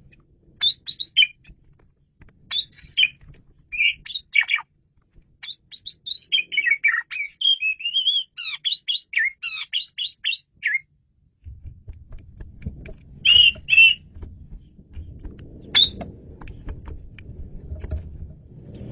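Male Asian pied starling (jalak suren) singing: a long run of short whistled notes that sweep up and down, densest through the middle. It then gives a pair of notes and a single note later on, over a low rumble that comes in about eleven seconds in.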